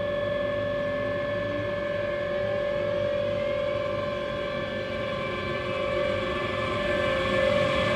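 CP Series 5600 electric locomotive giving off a steady high-pitched electrical whine over a low rumble of the train.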